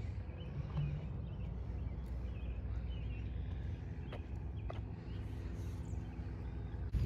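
A few faint bird chirps scattered over a low, steady rumble, with a couple of soft taps past the middle.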